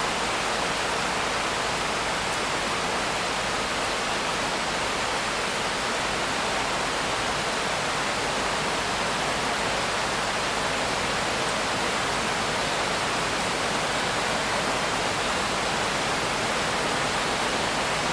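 Steady heavy rain: an even hiss with no single drops or thunder standing out.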